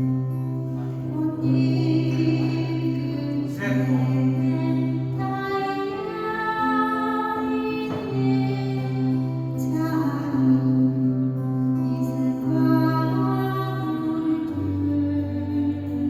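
A woman singing a slow ballad live, over steady sustained accompaniment notes.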